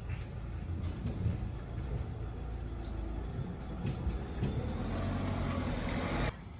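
A vehicle engine running, a steady low rumble that cuts off abruptly shortly before the end.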